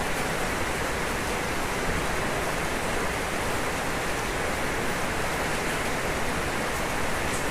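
Steady rain falling on a roof, an even hiss with faint ticks of drops.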